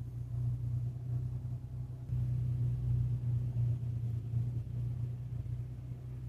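Steady low rumble of an automatic car wash heard from inside the car, getting louder about two seconds in.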